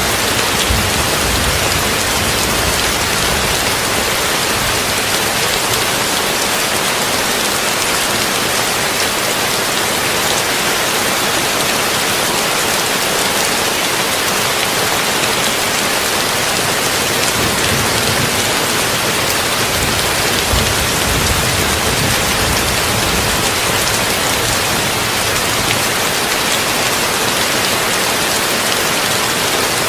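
Heavy rain drumming steadily on a tin roof, blended with brown noise. A low rumble swells briefly near the start and again past the middle.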